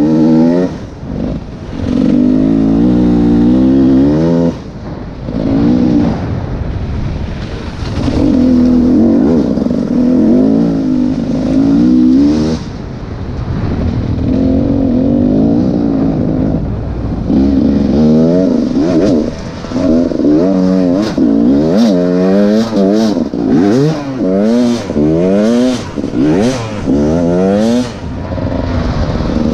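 Enduro motorcycle engine being ridden hard, the revs rising and falling repeatedly with throttle and gear changes and brief drops when the throttle is shut. In the second half the throttle goes on and off in quicker, shorter bursts.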